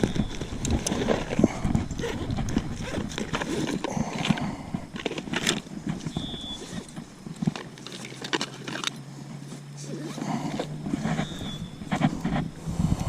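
Irregular clicks, knocks and rustling as pliers are fetched and worked against a hook deep in a bass's mouth to unhook it.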